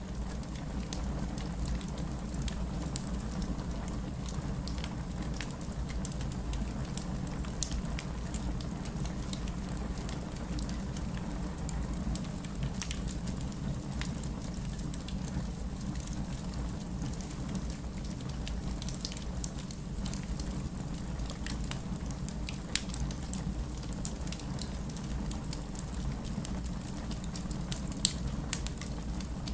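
Wood fire burning in a fireplace: a steady low rumble of flames with scattered crackles and pops of burning logs, and one sharper pop near the end.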